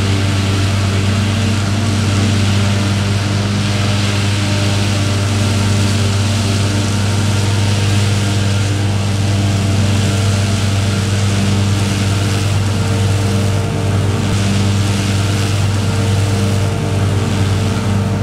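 Large diesel engine of heavy farm machinery running steadily under load.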